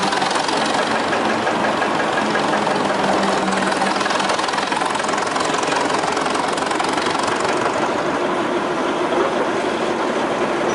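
1926 Twin City gas engine of a Northwest 105 dragline running steadily with a knock from a worn connecting rod bearing.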